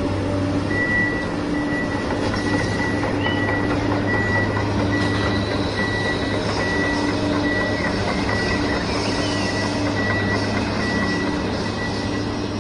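Reversing alarm of a heavy machine, beeping about twice a second over a steady low engine rumble. It is likely a dubbed construction-vehicle sound effect.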